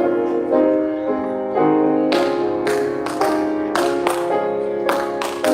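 Piano music: slow, sustained chords with new notes struck every half second or so.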